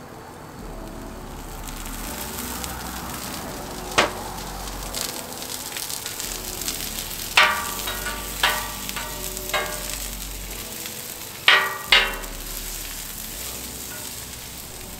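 Sliced onions frying in olive oil on the hot steel plate of a Pit Boss four-burner griddle, a steady sizzle. A metal spatula taps once about four seconds in, then clangs and scrapes against the griddle plate several times in the second half, each strike ringing briefly.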